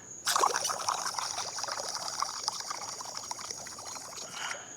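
Air escaping from an inflated long balloon-animal balloon through the nozzle of a 3D-printed balloon-powered catamaran: a fluttering hiss that starts abruptly and lasts about four seconds as the balloon deflates. Crickets chirp steadily behind it.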